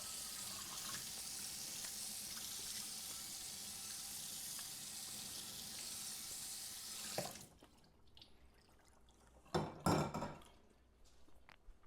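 Steady hissing that cuts off abruptly about seven seconds in, followed by a couple of loud knocks.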